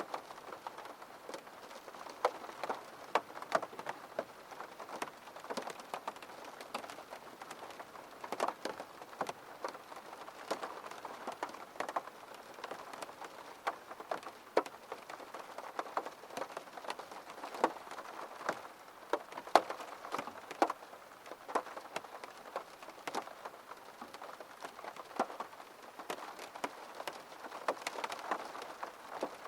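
Rain falling on a window, a steady patter with many separate drop taps hitting the glass at irregular intervals.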